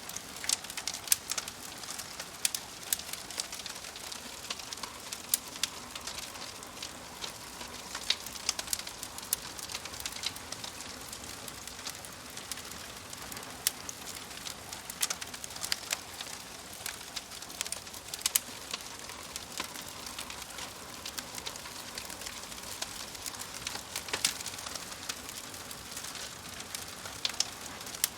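Wood logs burning in a fireplace: a steady hiss with frequent sharp, irregular crackles and pops.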